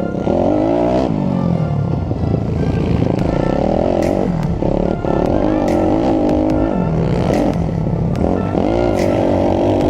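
A YCF SP3 pit bike's four-stroke engine being ridden hard, revving up and falling back again and again through the gears, with scattered knocks and clatter.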